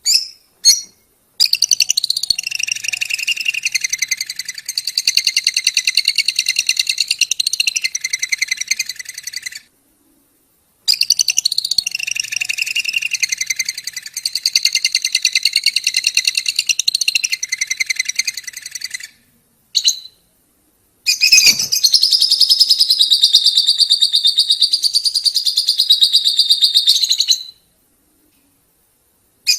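Lovebird singing 'ngekek', the long, rapid, high-pitched chattering trill. It comes as three long phrases of several seconds each, broken by brief silences, with a few short chirps before them and one between.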